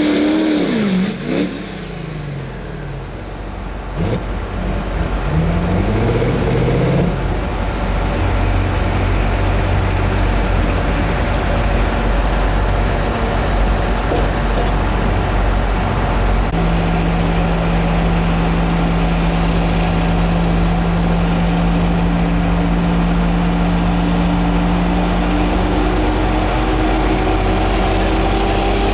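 Pro stock pulling tractor's turbocharged diesel engine, revved in sweeps at first and then running hard and steady, its pitch slowly climbing near the end.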